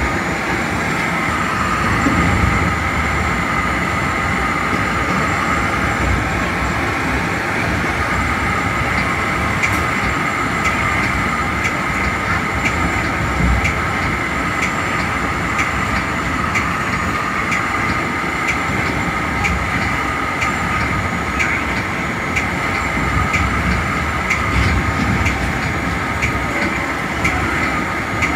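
Metra commuter train running steadily along the track, heard from inside its cab car: an even rumble and hiss of wheels on rail with a steady whine. From about halfway through, faint regular clicks come a little more than once a second.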